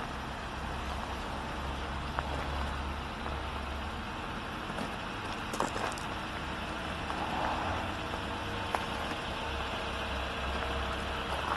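Audi A4 2.0 TDI four-cylinder turbodiesel idling steadily with a low rumble, with a few faint clicks.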